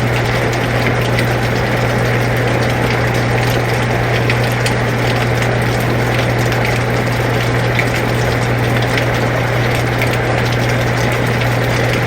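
Air conditioner running with a steady low hum, mixed with rain falling: a constant even hiss with scattered faint ticks of drops.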